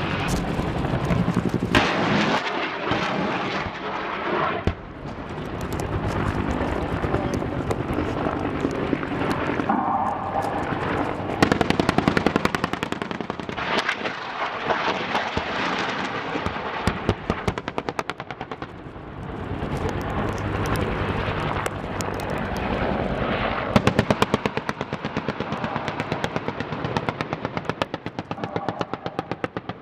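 Rapid automatic gunfire from attack helicopters on a live-fire gunnery range, in long repeated bursts, with evenly spaced strokes near the end.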